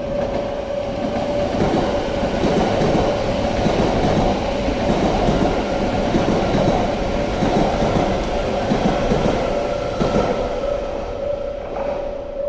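Yamagata Shinkansen E3 series train passing, its wheels clattering over the rails. The noise builds over the first two seconds, stays loud through the middle and fades in the last couple of seconds.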